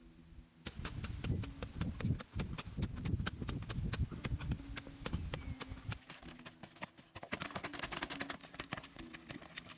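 Rapid, irregular tapping and knocking, with heavier thuds through the first half, over a faint steady tone.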